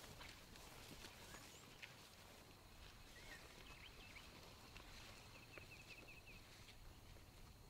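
Near silence with faint songbird calls: a few short chirps, then a quick trill of rapidly repeated notes about five and a half seconds in.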